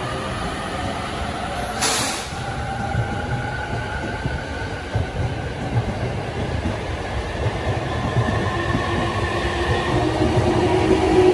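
JR electric commuter train in orange-and-green livery moving slowly along the platform track: a steady rumble of wheels and running gear under a faint whine that drifts slightly higher. A short burst of hiss comes about two seconds in, and a stronger steady tone joins near the end.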